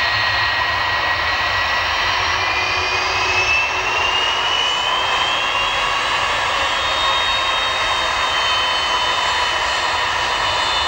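Jet engines of a Boeing 757-200 with Rolls-Royce engines running loudly and steadily, a high whine in the roar gliding upward in pitch over a few seconds.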